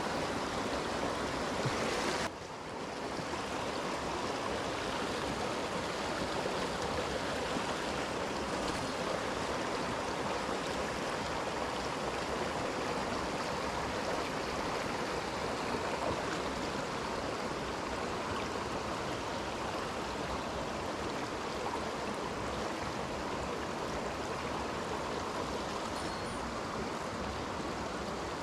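Mountain stream rushing steadily. The sound drops abruptly in level a little over two seconds in, then runs on evenly.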